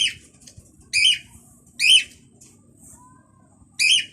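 A bird calling four times, short loud calls about a second apart.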